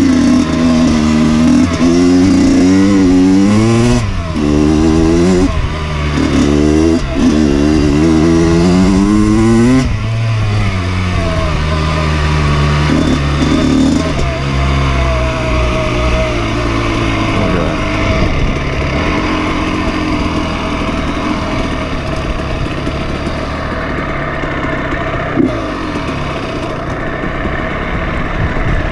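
Dirt bike engine under changing throttle: its pitch rises and falls again and again for about the first ten seconds, then holds steadier and a little quieter.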